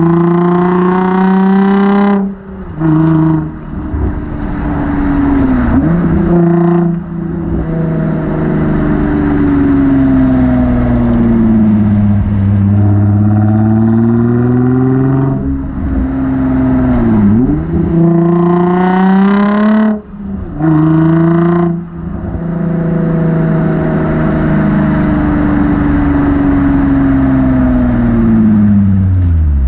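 Nissan 350Z's 3.5-litre V6 heard through a MotorDyne cat-back exhaust while driving hard. The revs climb through the gears with sudden pitch drops at each upshift and brief lulls while the clutch is in, and between pulls the engine slows down and picks up again.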